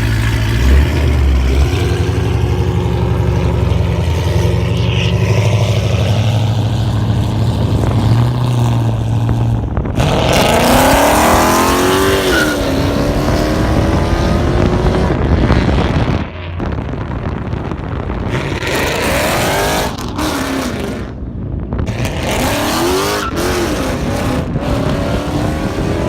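Straight-piped 6.1 Hemi V8 of a Chrysler 300 SRT8 running steadily for about ten seconds, then revved hard again and again, its pitch rising and falling as the car accelerates and passes. The sound breaks off sharply twice in the second half.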